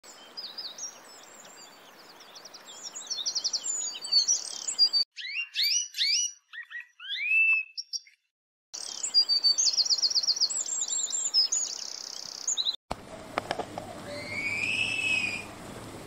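Several different songbird recordings spliced one after another: fast, high chirping trills and whistled notes, broken by a brief silence about eight seconds in. Near the end a different clip brings a low hum and a single call that rises and then falls.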